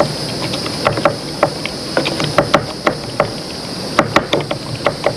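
Pestle knocking and mashing avocado in a mortar: irregular sharp taps, several a second, some louder than others.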